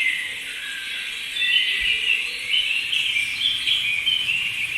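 A recording of spring birdsong: many small birds chirping and trilling at once.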